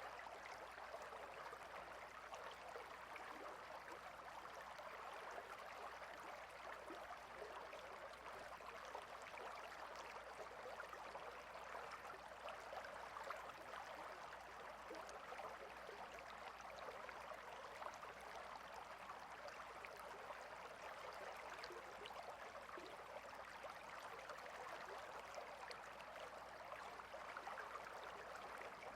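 Water stream running steadily: a faint, even rush and trickle of flowing water.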